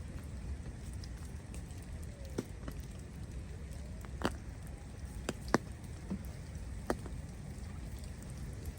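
Falling snow: scattered sharp ticks and taps landing on a surface, about half a dozen, the loudest a little past halfway, over a steady low rumble.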